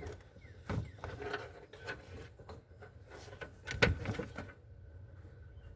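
Rubbing and rustling of trunk carpet being pulled and worked loose, with a few short knocks, the loudest about two-thirds of the way through.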